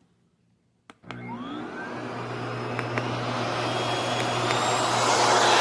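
Dog grooming vacuum switched on with a click about a second in, its motor spinning up with a rising whine, then running steadily and growing louder.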